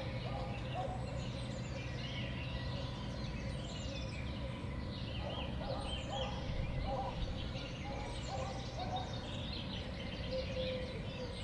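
Small songbirds at a winter sunflower-seed feeder calling and chirping: many short overlapping high chirps, with a run of lower, repeated short call notes through the middle, over a steady low background hum.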